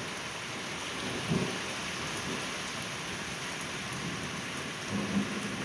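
Steady soaking rain falling, an even hiss, with two brief low rumbles of distant thunder, about a second in and near the end.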